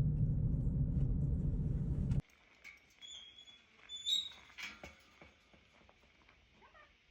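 Steady low rumble of a car driving, which cuts off suddenly about two seconds in. A few faint, short high chirps and soft clicks follow.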